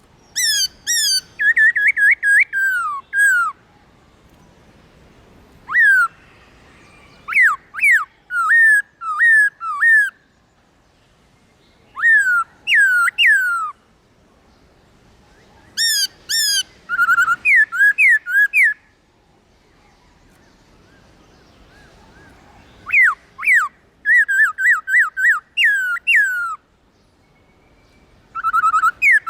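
Black-throated laughingthrush singing: loud, clear whistled phrases of quick slurred notes, given in bursts of a second or two with short pauses between, about seven phrases in all.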